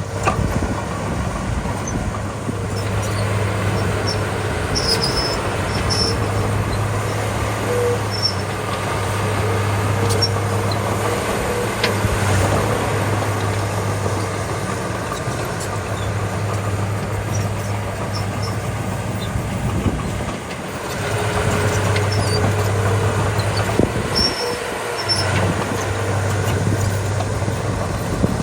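Diesel engine of a small Komatsu D31P crawler bulldozer running steadily under work, a steady low hum that dips briefly about 20 seconds in and then picks up again, with a few light clanks.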